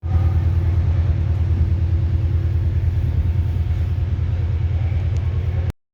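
A train's steady, loud, low rumble. It begins and breaks off abruptly.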